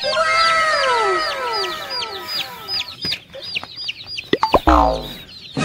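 Chicks peeping: a rapid run of short, high, falling cheeps, about three a second, with several longer, lower falling calls over the first two seconds. A few sharp knocks and a louder falling call come about four and a half seconds in.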